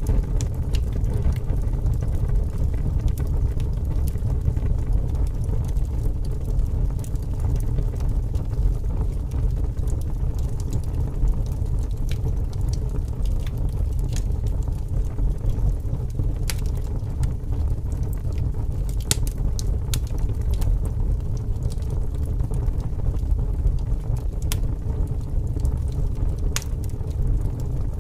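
Wood fire crackling, with scattered sharp pops and snaps, over a steady low rush of strong wind.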